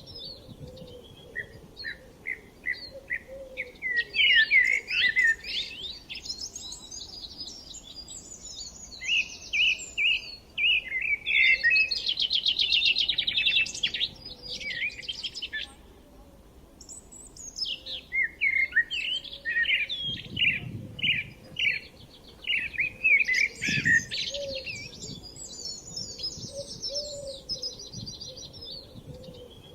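Several songbirds singing together: overlapping chirps, whistled notes and rapid trills that come in busy bursts with short, quieter lulls between them.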